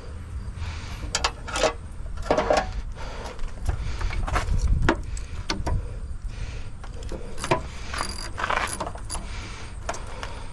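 Metal tools and parts clinking and clattering, with irregular sharp knocks over a low background rumble.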